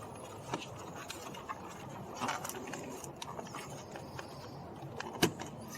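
Light handling noises of plastic door-panel trim and the window switch bezel: scattered faint clicks and taps, with one sharper click about five seconds in.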